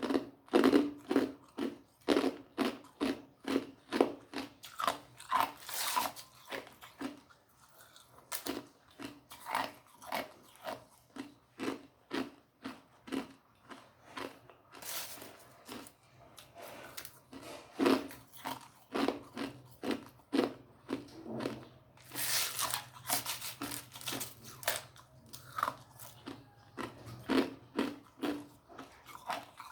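Ice cubes being bitten and chewed close to the microphone: a steady run of sharp crunches, about two or three a second, with a few louder, grittier crunches along the way.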